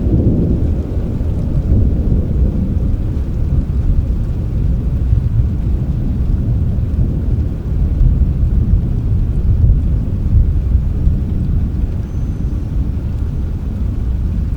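Thunderstorm: a low, continuous rumble of rolling thunder over rain, with little hiss of drops.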